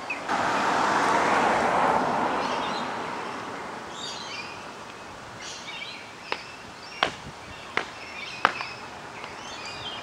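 A galah working at the chewed wood of its eucalypt nest hollow, with four sharp cracks about a second apart in the second half. A broad rushing noise swells just after the start and fades over several seconds, and small birds chirp faintly.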